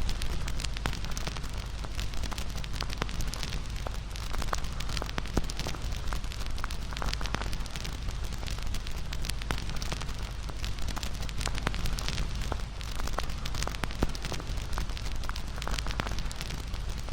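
Wood fire crackling, with many small sharp pops at irregular intervals over a steady low rumble.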